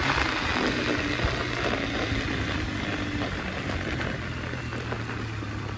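Yamaha dirt bike engine running at a steady pitch as the bike rides along a trail, gradually getting a little quieter.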